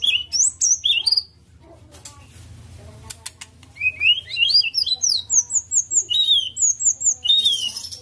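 White-rumped shama (murai batu) singing: rapid strings of sweeping whistled notes, a short phrase at the start and a longer one from about four seconds in, after a lull.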